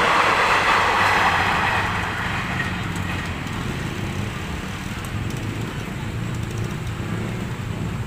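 Electric commuter train passing at speed, its rush of wheels and air loud at first and fading away over the first two or three seconds, leaving a steady low hum.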